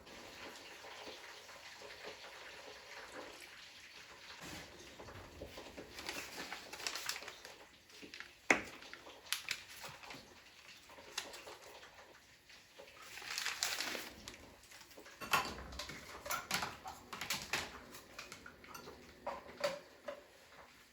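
Kitchen handling sounds: irregular light knocks and clicks of dishes and utensils, with a few short swishing rushes; one sharp knock stands out about eight seconds in.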